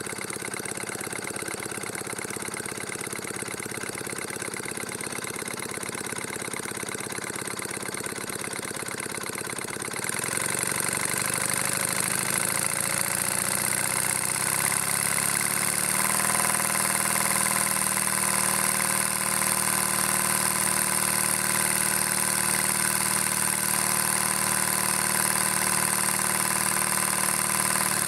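H.E. Boucher twin marine steam engine running on compressed air, its cylinders chuffing steadily with a hiss of air. About ten seconds in, the air hiss gets louder and the engine speeds up over several seconds, then runs steadily at the faster speed.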